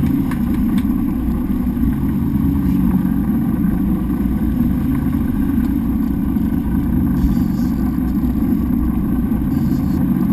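A boat's engine running steadily, a continuous low drone.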